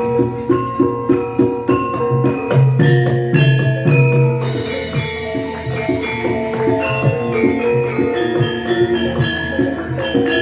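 Javanese gamelan ensemble playing a gending: struck bronze metallophones ringing in quick, interlocking notes over rapid low drum strokes.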